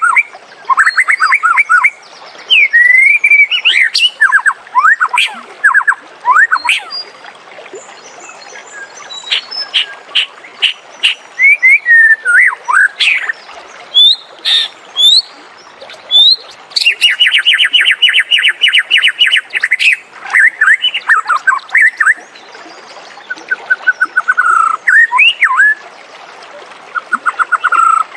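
White-rumped shama (murai batu) singing a varied song of quick trills, sweeping whistled notes and sharp chips. A long, fast, even trill comes a little past the middle.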